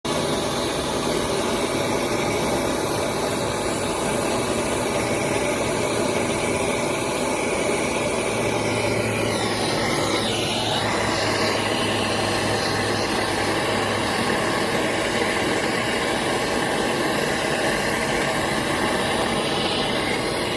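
A machine running steadily: a constant mechanical hum with several held whining tones, and a brief swooping sound about halfway through.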